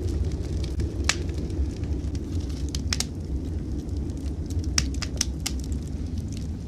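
Wood fire crackling in a fireplace: sharp pops and snaps come at irregular moments, several close together a little before the end, over a steady low rumble.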